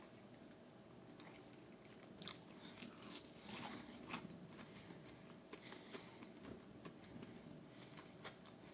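Faint chewing of a crispy tater tot: soft crunches and wet mouth clicks, busiest from about two to four seconds in.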